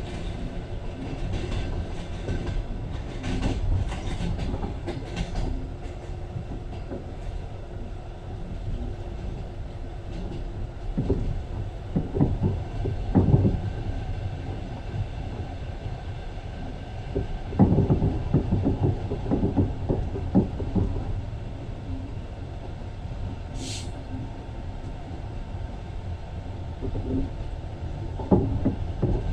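Passenger train running, a steady low rumble with bursts of wheels clattering over rail joints every so often, and one brief high squeal about three-quarters of the way through.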